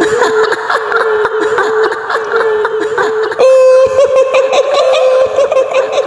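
High-pitched woman's cackling laugh in the style of the kuntilanak ghost: quick, broken laughing notes for the first half, then from about halfway a long high note held steady.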